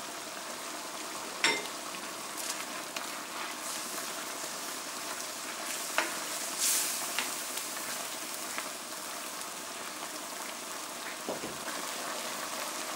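Chicken curry sizzling and bubbling in a wok as it cooks down, a steady hiss. A few sharp clicks of a spatula against the pan come once early and again about six seconds in, while it is stirred.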